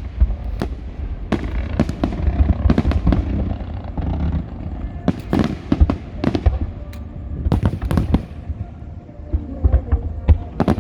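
An aerial fireworks display: a rapid run of shell bursts and bangs, some of them overlapping, over a continuous low rumble.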